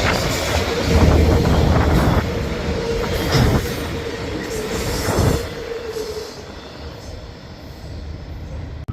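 Freight train rolling past, its wheels rumbling on the rails with a steady high tone over the noise, fading away as the train moves off.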